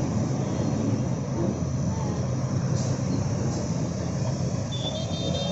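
Steady low rumble of a moving vehicle, with a brief high-pitched tone near the end.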